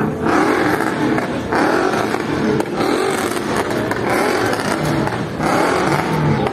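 A car engine revving in a run of short blips, about five of them, each a little over a second long.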